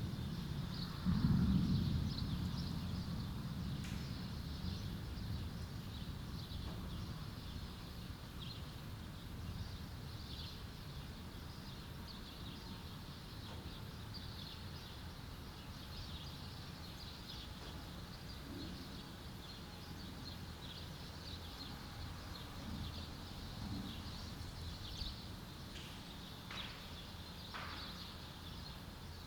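Thunder rolling and dying away, with a fresh peal about a second in that fades over the next several seconds into a faint low rumble. Small birds chirp throughout.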